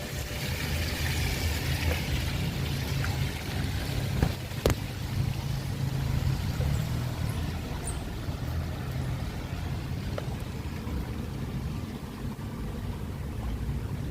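Rainy street ambience: steady low wind rumble on the microphone, with the hiss of a vehicle on the wet road in the first few seconds that fades out. There are two sharp knocks about four and a half seconds in.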